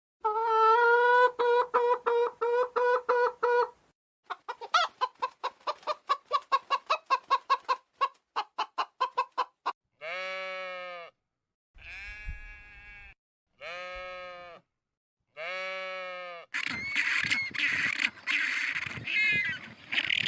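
Chickens clucking and calling in a string of short separate clips. Rapid pulsing clucks and cackles come first, then four separate drawn-out calls of about a second each, then a busier stretch of many overlapping calls near the end.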